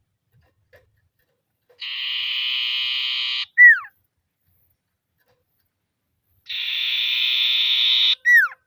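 Common iora (sirtu/cipoh) singing its ngetir song twice: a long buzzy trill followed each time by a loud, sharply falling whistle.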